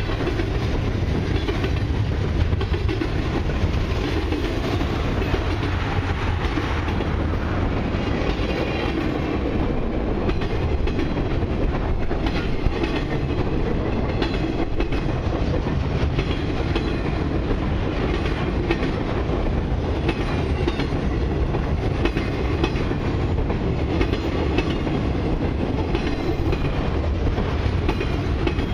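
Cars of a long CN mixed freight train rolling past close by: a steady rumble of steel wheels on rail, with clicking as the wheels cross rail joints.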